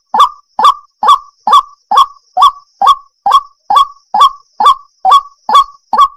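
A waterhen calling over and over: short harsh croaks repeated at an even pace of about two a second.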